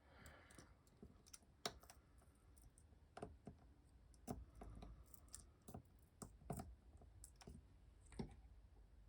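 Faint, irregular taps and clicks from hands handling a hand-stitched paper journal and its binding string, over a low room hum.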